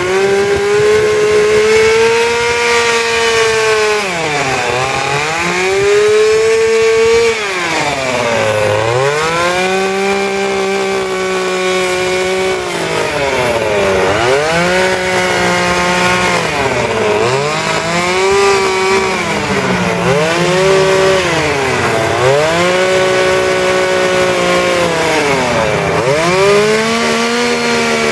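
Two-stroke chainsaw cutting into wood at high revs, its pitch dropping and coming back up every few seconds as the throttle is eased off and opened again between cuts.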